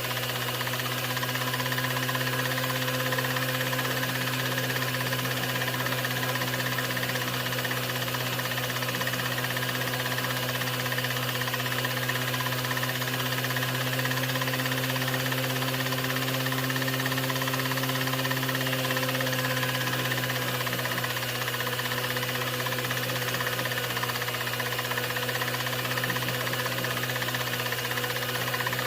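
A 16mm film projector running: a steady mechanical hum with a strong low drone and several fixed tones above it, unchanging throughout.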